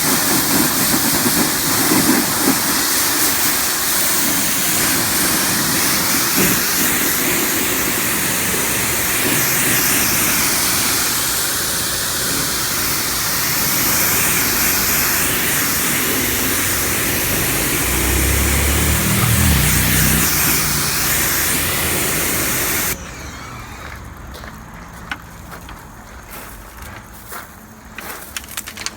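Pressure washer spraying rinse water over a truck body, a steady loud hiss of water spray with a brief low rumble about 18 seconds in. The spray cuts off suddenly about 23 seconds in, leaving a much quieter stretch with scattered small clicks and drips.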